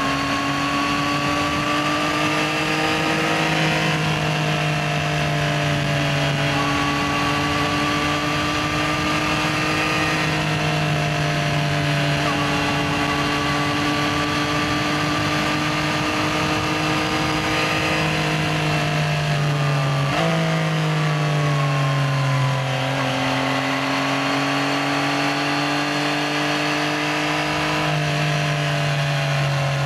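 Yamaha XSR900's 890 cc inline three-cylinder engine heard from on board while riding, running at moderate revs with gentle rises in pitch and several gear changes. About two-thirds of the way through the revs drop as the bike slows, then pick up again.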